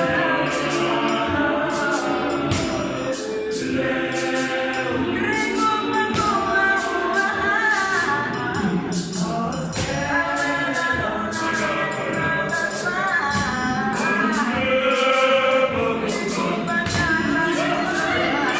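Gospel choir singing in harmony over a steady beat of crisp, jingling percussion.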